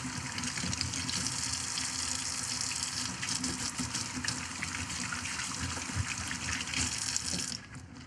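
Sink tap running, with water splashing over hands being washed under it, then shut off near the end.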